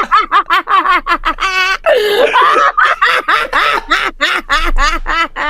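A person laughing hard in rapid high-pitched bursts of about five a second, with a brief held squeal and a swooping cry about two seconds in.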